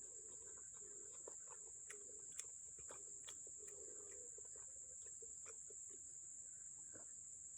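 Faint, steady high-pitched trill of crickets, with a few faint scattered clicks.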